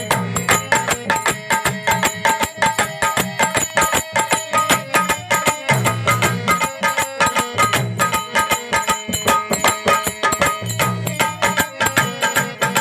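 Instrumental interlude of a devotional bhajan: a dholak played in a fast, driving rhythm with deep bass strokes every second or two, over jingling percussion and a held melody line.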